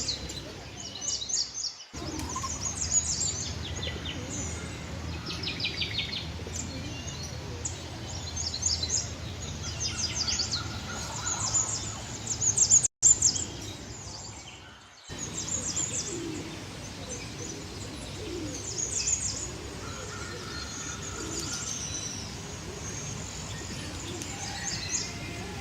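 Many caged birds chirping and trilling over one another, with short rapid trills and calls overlapping throughout. A steady low rumble runs underneath, and the sound drops out briefly about two seconds in and again around the middle.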